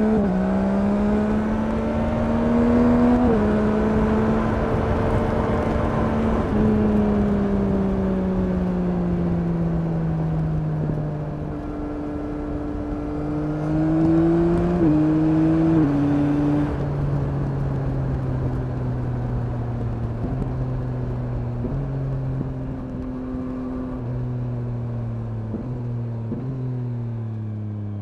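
2021 Yamaha MT-09's CP3 three-cylinder engine pulling under throttle. The note rises, steps down at a gear change about three seconds in, then falls off as the bike slows. It picks up again briefly around the middle, then there are several downshifts near the end, each a short jump in the engine note, with wind rushing past the microphone during the faster part.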